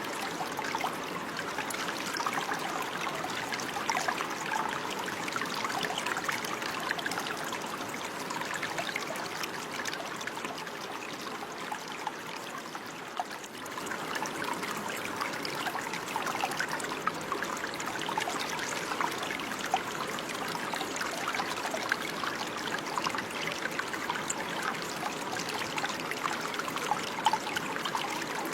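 Running water trickling and splashing steadily, a dense stream of small splashes, briefly a little quieter about halfway through.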